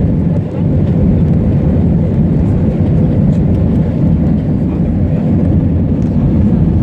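Airbus A320-200 airliner heard from inside the passenger cabin: a loud, steady jet-engine and airflow rumble with a faint steady hum. The loudness dips briefly about half a second in.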